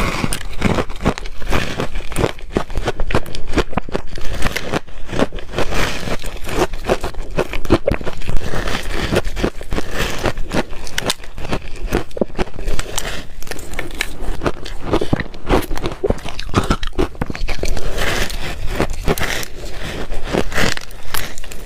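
Ice being bitten and crunched between the teeth, close up: a dense, continuous run of sharp cracking crunches.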